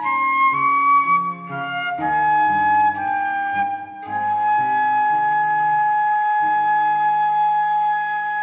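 Flute playing a slow melody over an accompaniment of lower notes, ending on one long held note from about four seconds in.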